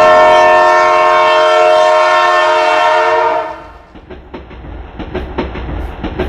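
A loud horn sounding a steady chord for about three and a half seconds. It fades into a quieter, rapid run of regular clicks over a low rumble.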